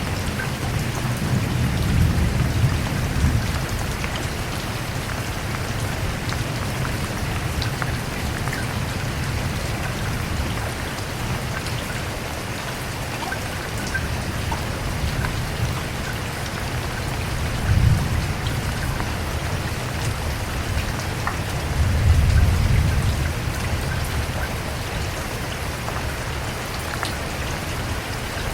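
Steady rain falling, with low rumbles of thunder swelling three times: about two seconds in, briefly past the middle, and longest about three-quarters of the way through.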